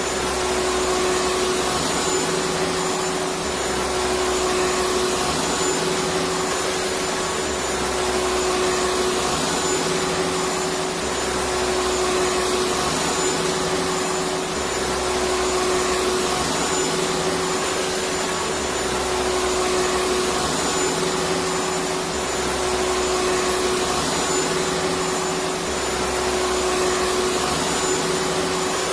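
Electric vacuum cleaner running continuously, a dense steady rushing noise with a constant motor hum and a faint high whine. Its low rumble swells and eases in a regular cycle about every two to three seconds.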